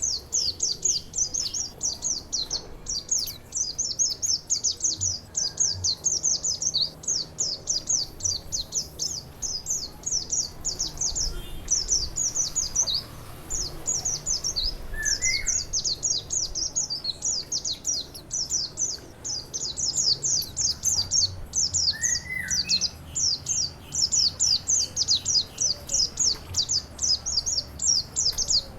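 A songbird singing a continuous, fast stream of short, high, downward-sweeping chirps with hardly a pause. Twice, a brief lower note breaks in, about halfway and again near three-quarters through.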